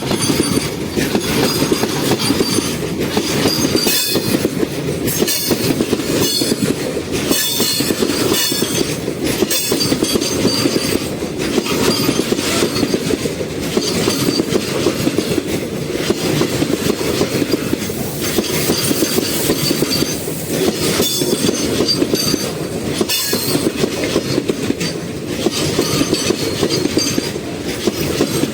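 Freight train wagons rolling past over a scissors crossover: a steady loud rumble with irregular clanks as the wheels cross the rail gaps, and at times a high metallic wheel squeal.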